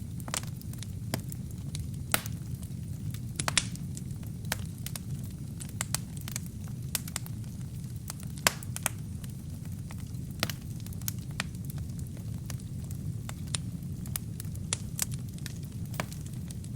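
Wood fire burning with a steady low rumble of flame and irregular sharp crackles and pops from the burning logs, a few pops standing out louder than the rest.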